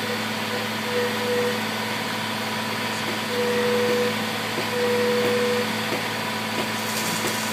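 Heavy truck diesel engines of a concrete pump truck and cement truck running steadily at idle, with three short steady whining tones about a second, three and a half seconds and five seconds in.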